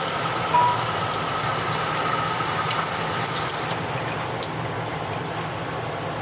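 Commercial multi-nozzle shower head spraying water steadily onto test panels in a laboratory sink: a steady hiss of simulated moderate rainfall. The highest part of the hiss fades about four seconds in.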